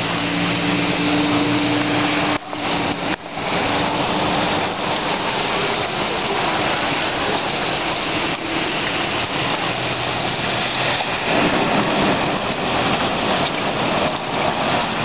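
A vehicle driving slowly through street floodwater: a steady rushing wash of water, with an engine hum that fades out about two and a half seconds in.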